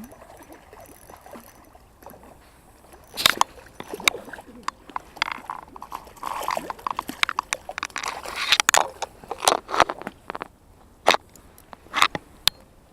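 Water splashing and sloshing in irregular bursts, with sharp clicks and knocks mixed in and a few single clicks near the end.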